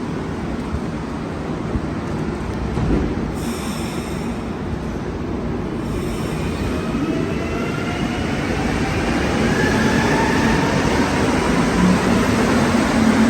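Montreal metro rubber-tyred train running through the station, its motors giving a rising whine as it picks up speed and the noise grows louder over the second half.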